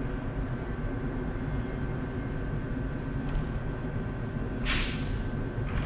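Electric passenger train standing at the platform, giving a steady low hum with a constant thin whine. A short, sharp burst of air hiss from its brakes comes about three-quarters of the way through.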